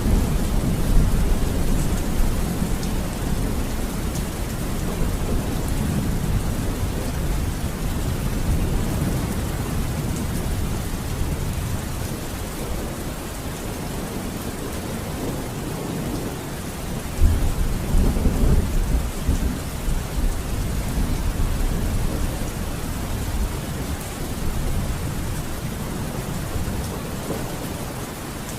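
Steady rain with low rolling thunder. A louder roll of thunder begins a little past halfway and fades over a few seconds.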